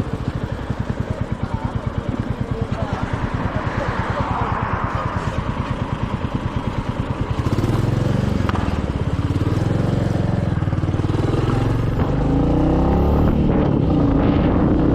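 Royal Enfield Meteor 350's single-cylinder engine running under way with a rapid, even thump at low revs. About halfway through it changes, and in the last few seconds it gets louder and its pitch rises as the bike accelerates, with wind and road noise throughout.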